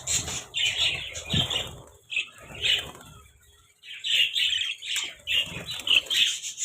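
Pet budgerigars chattering and chirping in irregular short bursts, with a brief lull midway.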